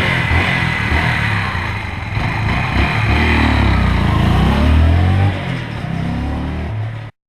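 Yamaha XT125X's single-cylinder four-stroke engine running loud through its exhaust, the revs climbing and falling between about three and five seconds in. The sound cuts off suddenly near the end.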